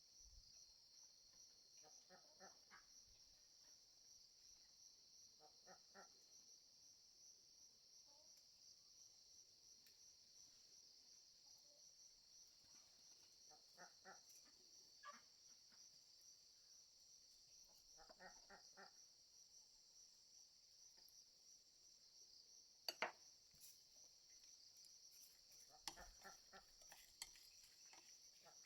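Steady high-pitched chorus of crickets or other insects, with a few short pulsed animal calls every few seconds and one sharp click about 23 seconds in.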